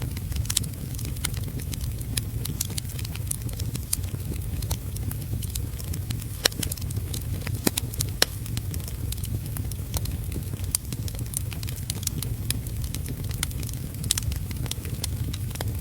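Wood fire in a fireplace crackling, with frequent irregular pops and snaps and a few sharper pops around the middle, over a steady low rumble and the hiss of heavy rain.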